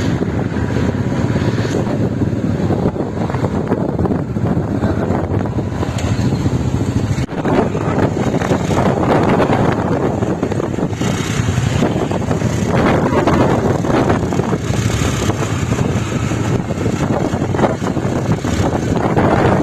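Steady road and engine noise of a moving vehicle, dropping off briefly about seven seconds in.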